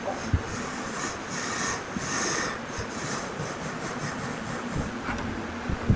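Wood being rubbed or scraped by hand: a run of rasping strokes, with a few short knocks.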